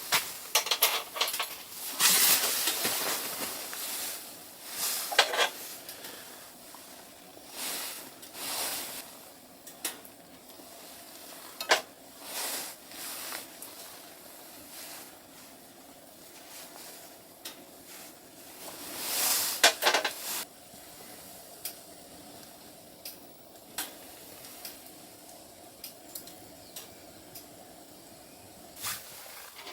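Irregular scrapes, rustles and sharp clicks of something being handled, loudest about 2 seconds in and again about two-thirds of the way through, over a faint steady hum.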